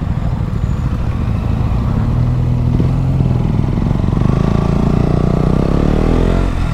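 KTM Duke 125's single-cylinder four-stroke engine, breathing through a Mivv GP Pro aftermarket exhaust, running at low speed, then revving up as the bike pulls away from about four seconds in, with a brief dip near the end. Low wind rumble on the microphone underneath.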